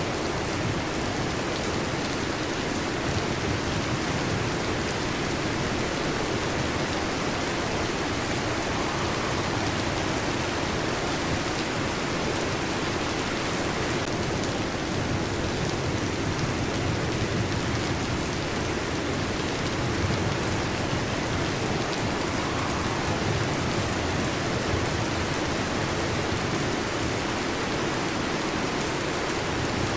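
Heavy rain drumming steadily on a metal roof.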